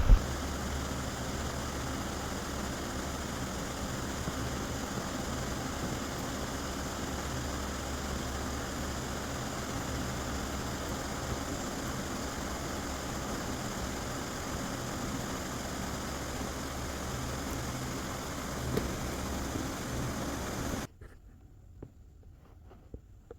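A steady mechanical hum with a few steady tones in it, cutting off suddenly near the end.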